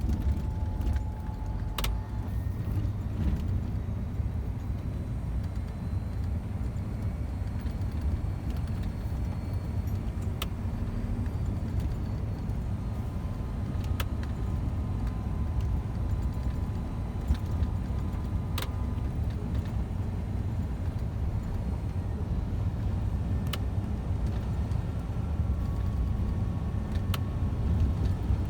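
Scania truck driving on the open road, heard from inside the cab: a steady low drone of engine and road noise, with a few scattered small clicks and rattles.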